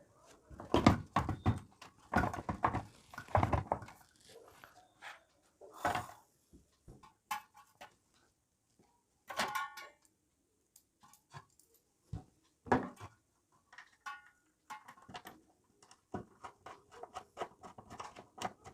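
Irregular knocks, taps and clatter of hands handling and fitting parts of an electric geyser into its casing, with short pauses between bursts.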